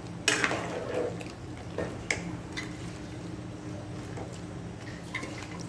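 Cooking sounds from a pot of simmering soup as greens are added: a sharp knock, then a few lighter clicks and soft rustles of a utensil against the pot, over a steady low hum.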